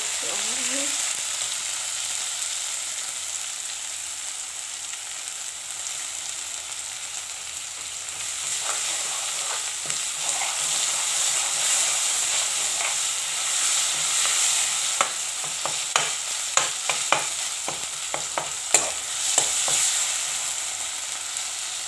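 A vegetable sabji sizzling steadily in oil in an iron kadai. In the second half a quick run of sharp metallic clicks and knocks comes from something striking the pan.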